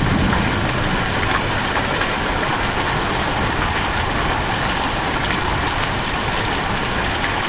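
Heavy rain mixed with small hail pouring down in a thunderstorm: a steady dense hiss with scattered ticks of pea- to penny-size hailstones striking.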